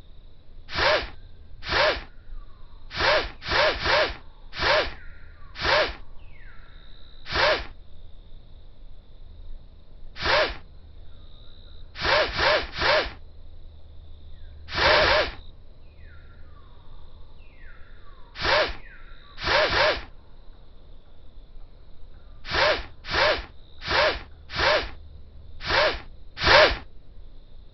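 Cat-game sound effects: a short, noisy burst repeated about twenty times at uneven intervals, sometimes in quick runs of two or three. Under them runs a faint steady high tone, with a few faint falling swishes.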